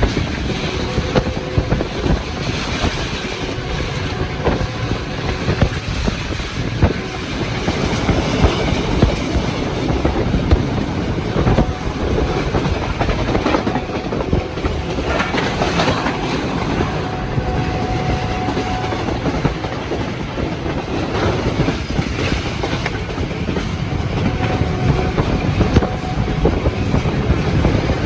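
Passenger train running along the track: a steady rumble with the wheels clicking and clattering irregularly over the rails.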